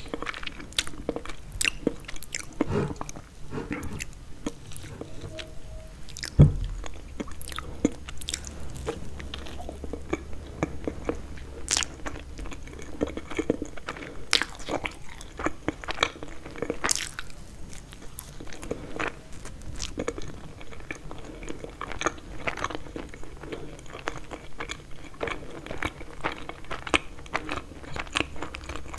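Close-miked biting and chewing of Napoleon cake, its flaky puff-pastry layers crunching and crackling between the teeth. A single low thump about six seconds in is the loudest sound.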